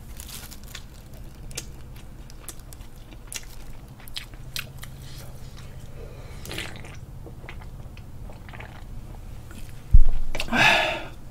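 Close-miked mouth sounds of a person eating: chewing with many small wet clicks and crunches, and a drink from a can partway through. About ten seconds in, a sudden loud thump, then a short breathy burst.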